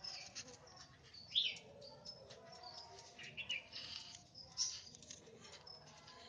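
White-rumped shamas giving short scattered chirps, the loudest about a second and a half in, with light clicks between.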